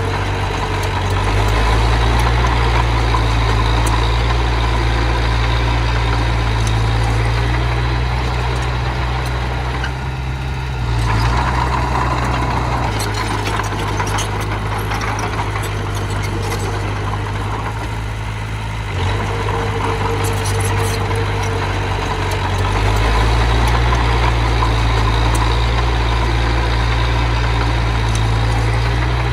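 Diesel engine of earthmoving machinery running steadily with a strong low hum, its level stepping up and down several times as the engine works harder and eases off.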